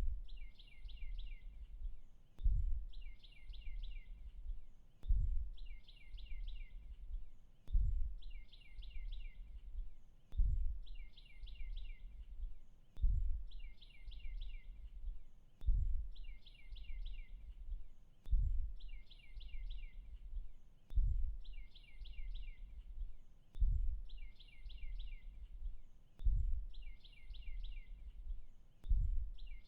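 A short bird call of four or five quick notes repeating identically about every two and a half seconds, over a low rumble with a dull thump at each repeat, like a looped forest-ambience track.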